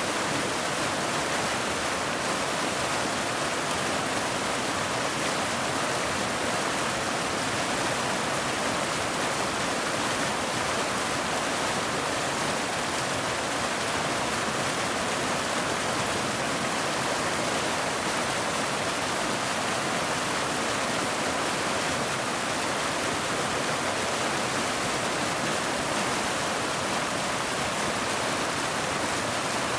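Steady, unbroken rain, an even hiss with no single drops or gusts standing out.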